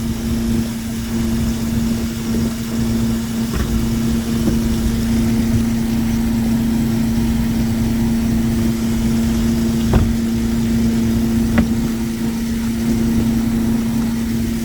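A fishing boat's engine and machinery run steadily, a constant hum over a low rumble. Two sharp knocks come about ten and about eleven and a half seconds in.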